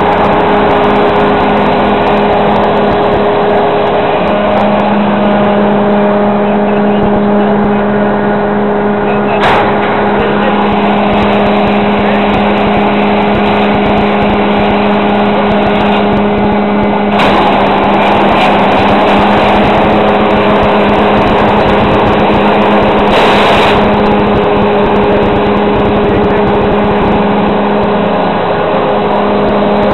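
Fendt 924 Vario tractor and the Kemper Champion 3000 forage harvester it drives, running loud and steady with a constant droning hum.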